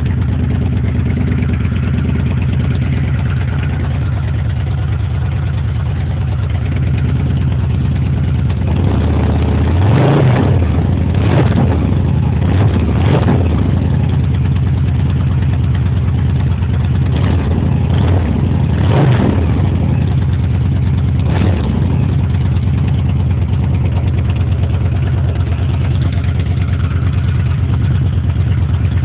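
Victory Highball's V-twin engine running through open pipes with the exhaust tips removed. It idles steadily, then is blipped several times in quick succession about a third of the way in, and a few more times a little later, before settling back to idle.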